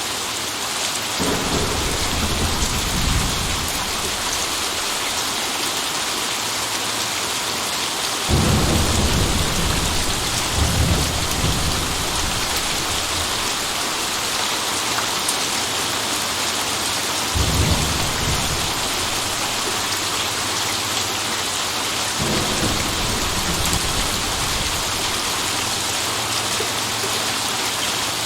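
Steady heavy rain with several rolls of thunder. Low rumbles come in about a second in, about a third of the way through, past the middle and again later, each rolling for a few seconds over the rain.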